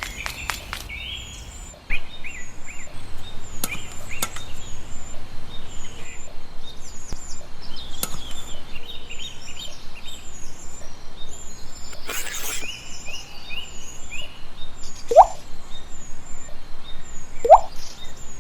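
Birds chirping, with a quick, even pulsing from about two seconds in and two short rising calls near the end, the loudest sounds.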